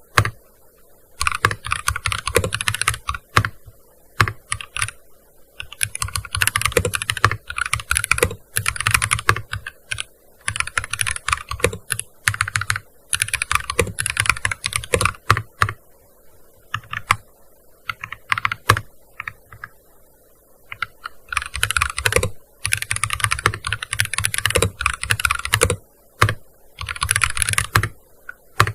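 Typing on a gaming keyboard: fast runs of key clicks in bursts of a second or three, broken by short pauses.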